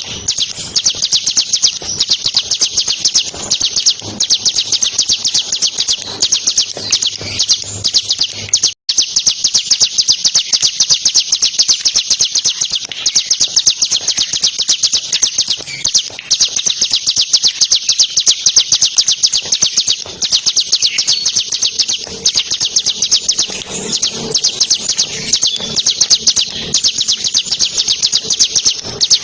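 Bar-winged prinia (ciblek) singing a long, rapid, high trill of quickly repeated notes with barely a pause, the fast 'ngebren' delivery bird keepers prize. It breaks off for an instant about nine seconds in.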